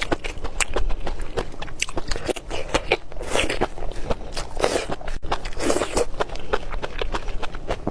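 Close-miked crunching and chewing of food: a rapid run of crisp crunches, with three fuller, louder bites between about three and six seconds in, over a steady low hum.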